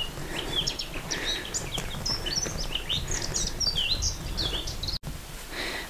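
Wild birds chirping and singing: many quick, high notes and short downward-sweeping calls, over a steady low rumble.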